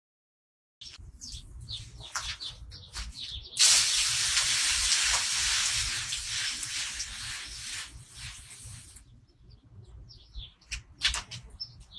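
Garden hose spray nozzle hissing as it waters plants, starting a few seconds in and running for about five seconds before shutting off. Birds chirp before and after the spray.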